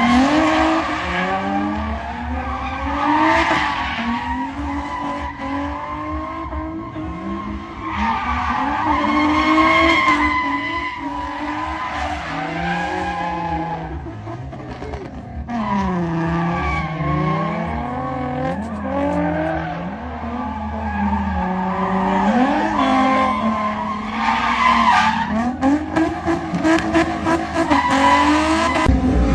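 Drift car engine revving hard, its pitch rising and falling over and over, with tires squealing as the car slides.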